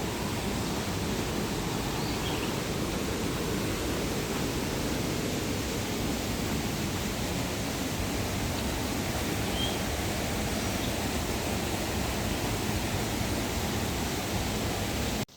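Steady rushing of falling water, like a waterfall, cutting off suddenly near the end.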